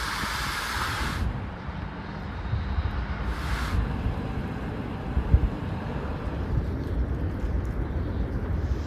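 Low, uneven outdoor rumble, with two short hissing bursts, one in the first second and one about three seconds in.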